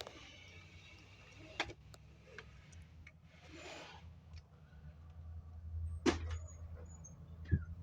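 Blackbirds calling: scattered sharp chips and squeaky, high thin whistles over a steady low hum.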